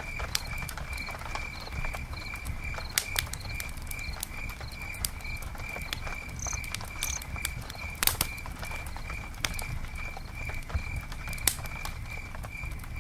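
Campfire crackling, with scattered sharp pops (the loudest about 8 s in) over a low, steady rumble. A high, even chirp repeats about three times a second throughout.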